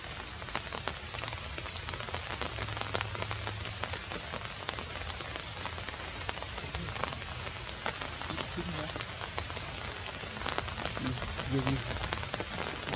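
Steady rain pattering, many small drop ticks over an even hiss, with faint voices near the end.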